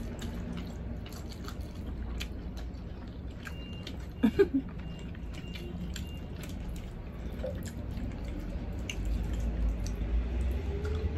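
Close-up chewing and mouth sounds of people eating by hand, with many small wet clicks and lip smacks, and a brief louder mouth sound about four seconds in.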